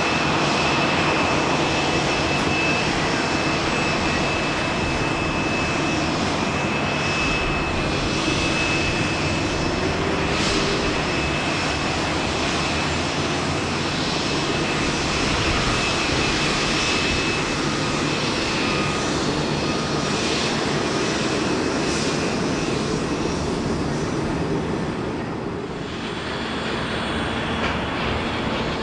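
Jet airliner engines running loud and steady as an aircraft moves at the airport, a thin high whine riding over the rush of the engines. The noise eases off near the end.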